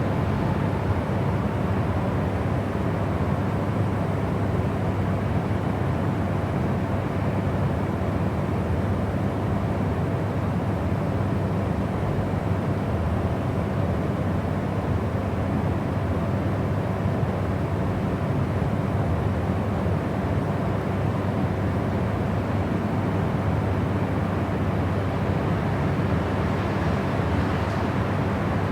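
Steady, unbroken rushing noise of a white-noise sleep track, weighted toward the low end like a deep rumble, with faint steady hum tones under it.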